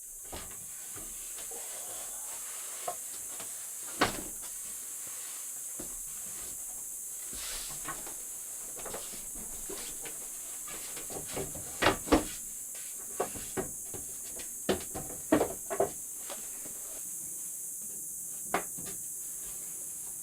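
Steady high-pitched hiss of night insects, with scattered close clicks and knocks, a cluster of them about twelve and fifteen seconds in.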